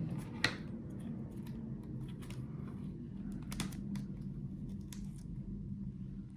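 Scattered small clicks and taps of a screwdriver and plastic laptop parts being handled during disassembly, with one sharper click about half a second in, over a faint steady low hum.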